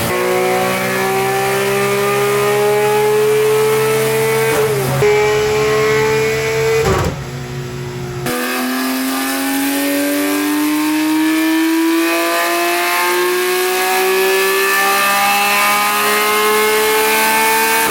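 Porsche 991 GT3's tuned 4.0-litre flat-six with a sports exhaust pulling hard at full throttle, its pitch climbing steadily through each gear. It drops sharply on upshifts about five and seven seconds in, then climbs in one long rise to the end.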